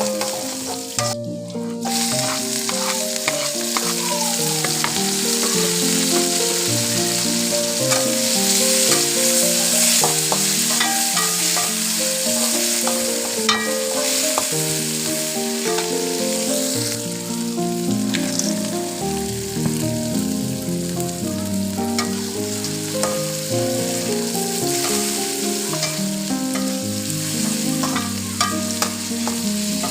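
Food sizzling in hot oil in a frying pan, with light clicks of a spatula stirring, over soft background music of a steady run of melodic notes. The sizzle drops out briefly about a second in.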